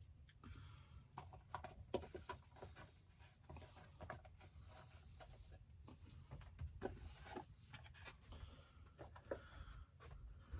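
Faint, irregular crackling and spitting of sausage patties and steak frying in a pan.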